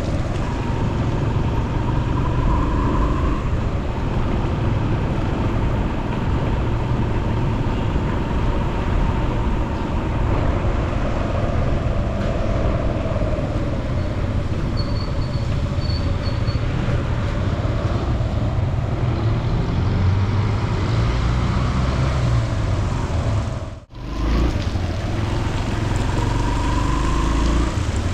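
Steady vehicle engine and road noise, as from riding through city traffic. It holds even throughout, except for a brief, sudden dropout a few seconds before the end.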